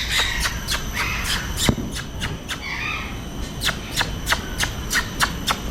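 Parrots calling in an aviary: a run of sharp, repeated chirps, about three or four a second, pausing briefly near the middle, with hoarse squawks in between.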